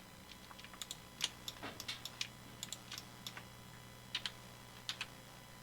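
Quiet, irregular clicking of a computer keyboard and mouse as Blender shortcuts are used, about twenty light clicks scattered unevenly, over a faint steady low hum.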